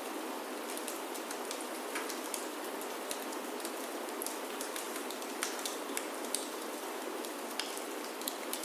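Steady rain falling on a wooden chalet roof, an even hiss with nothing deep in it. Irregular sharp clicks and pops sound over it, a few a second, such as a wood fire crackling in a fireplace makes.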